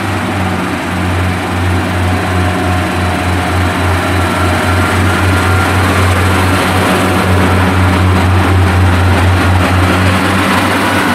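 Class 142 Pacer diesel multiple unit's underfloor diesel engines running close by, a steady low hum over a wide rumble that grows slightly louder, as the unit stands at the platform ready to depart.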